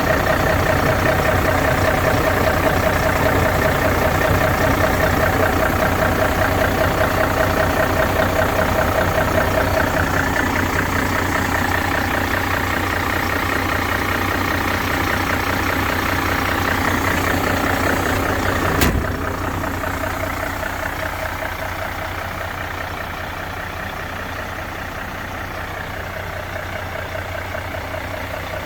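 Mercedes-Benz Actros 2541 truck's diesel engine idling steadily. A sharp click comes about 19 seconds in, after which the engine sounds a little quieter.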